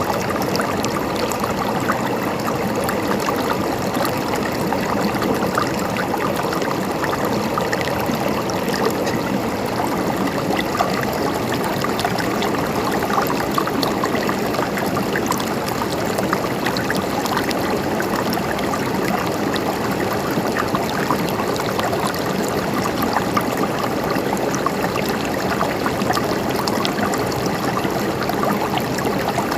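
A stream of water flowing and trickling over rocks in a steady babble.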